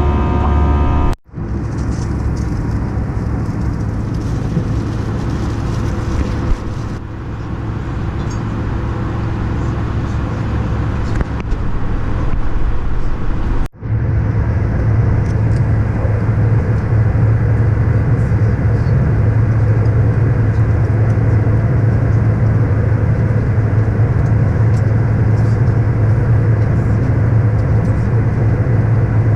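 Steady running noise of a vehicle, with a low hum, broken by two abrupt cuts: about a second in and about halfway through. After the second cut the hum is stronger.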